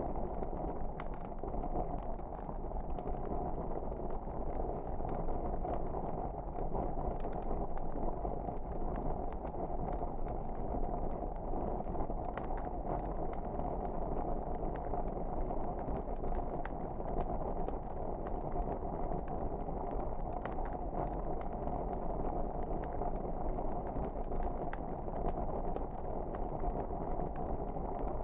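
Wood fire burning in a fireplace: a steady low rush of flame with many small crackles and pops scattered throughout.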